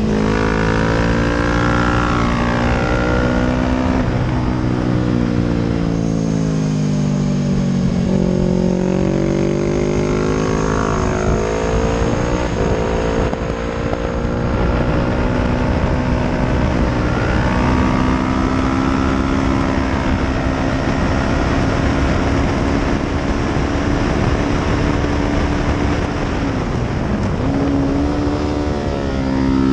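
Honda 250RR sport bike's engine at racing speed, its revs rising and falling through the corners and gear changes, with steady wind rush over the onboard camera. The note drops twice early on, holds high and steady for several seconds later, then dips briefly and climbs again near the end.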